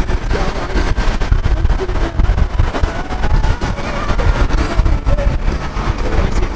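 Car on the move: a steady low road and engine rumble with irregular buffeting.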